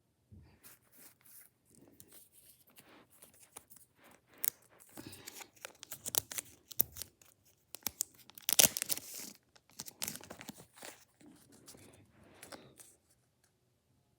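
A trading card pack's wrapper being torn open and crinkled by hand: a run of rustling tears, loudest a little past the middle.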